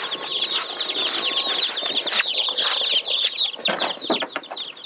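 A box of day-old Cornish Cross meat chicks peeping all at once: a dense, continuous chorus of high, short downward-sliding peeps, with a few knocks in the second half.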